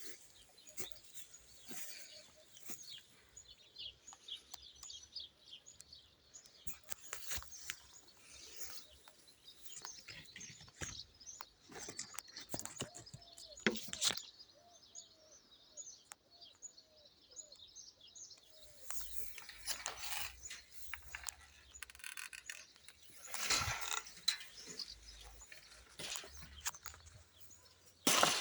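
Outdoor ambience with small birds chirping in quick, high twitters, over scattered sharp clicks and rustles.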